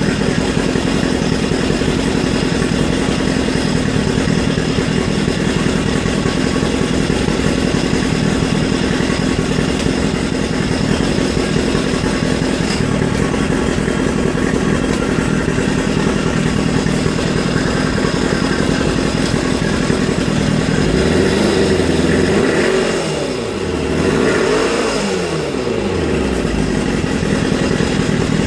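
Mercury 50 outboard motor running steadily; near the end its note swings down and up in pitch for a few seconds.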